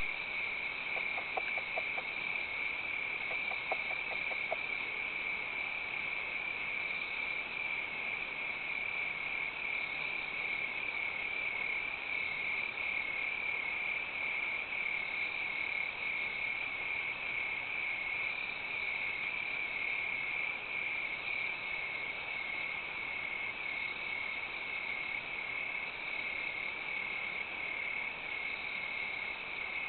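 Insects chirping in a steady, finely pulsing high-pitched chorus. A few short faint clicks come in the first five seconds.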